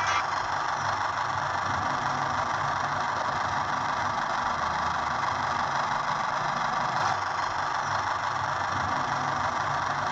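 Tractor engine running steadily, a constant mechanical noise over a low rumble.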